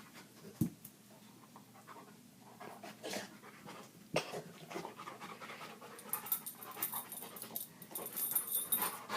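A dog panting hard, with a few sharp knocks, the clearest about four seconds in.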